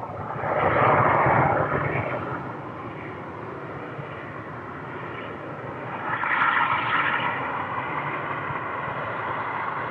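Embraer ERJ regional jet's turbofan engines heard from the ground during a landing: a loud rush of jet noise swells about half a second in and fades. Near six seconds it rises again into a steady jet whine that carries on.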